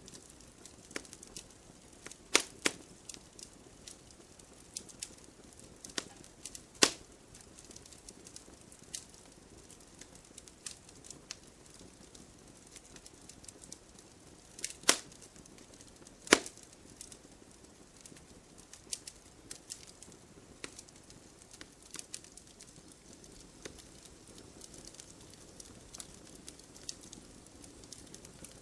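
Wood fire crackling: irregular sharp pops and snaps over a faint hiss, with a few louder pops about 2, 7, 15 and 16 seconds in.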